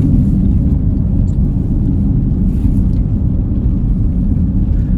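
Steady low road and engine rumble inside a moving car's cabin as it drives on a snowy road.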